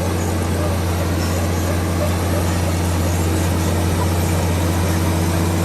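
Komatsu D65PX bulldozer's diesel engine running steadily at constant speed, with a deep, even hum.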